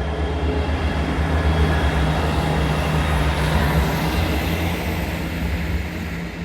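Class 158 diesel multiple unit passing, its underfloor diesel engine giving a steady low drone with rail and wheel noise. A faint high whine rises about three seconds in, and the sound eases off near the end as the train moves away.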